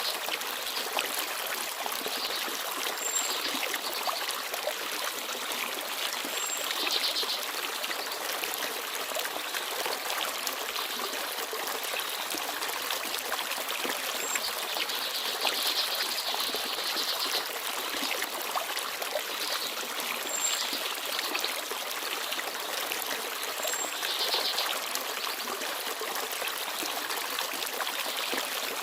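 Forest stream babbling steadily over stones. A few brief, very high chirps from small birds come through now and then.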